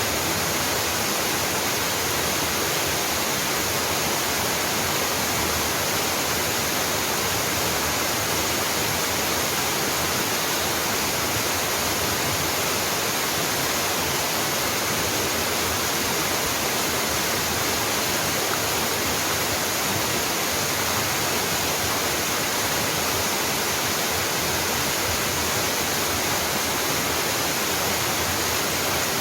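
Waterfall pouring down in a steady, unbroken rush of water.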